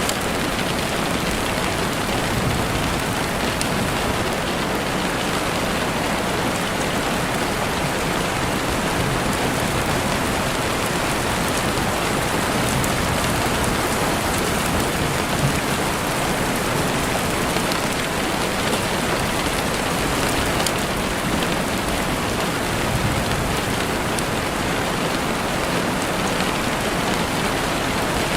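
Heavy rain falling steadily on a window, a dense even hiss with scattered faint drop ticks.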